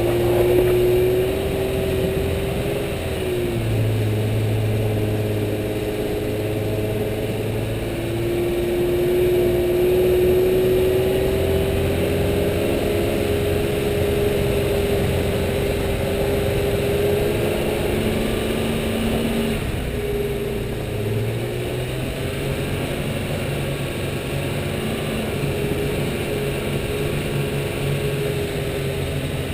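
A four-wheel-drive vehicle's engine running under load in four-wheel drive through a river crossing. Its note dips a few times and climbs back up.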